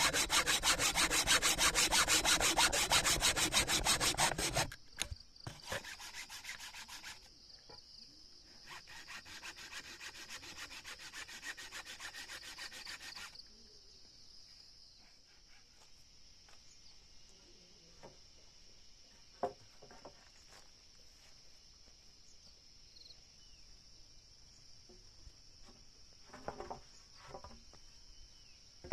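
Wood being sawn in three runs, the first and loudest lasting about four seconds and the later two quieter, stopping about halfway through. Insects then keep up a steady high buzz, with a few light knocks.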